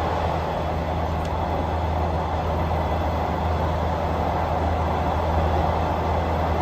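A passenger train running along steadily, heard as an even noise with a constant low hum beneath it.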